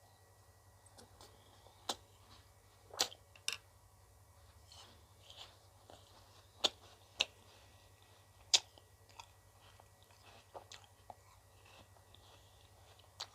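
Close-miked eating of ice cream: soft chewing broken by sharp, scattered crunches and bites, the loudest about three, six and a half, seven and eight and a half seconds in.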